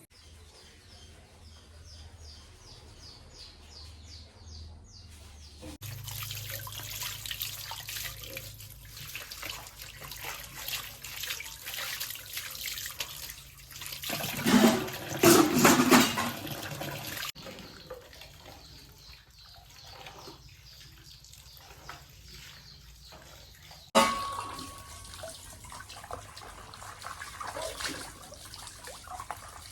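Running water and splashing, in stretches that change abruptly, loudest about halfway through, with a sharp knock about four-fifths of the way through.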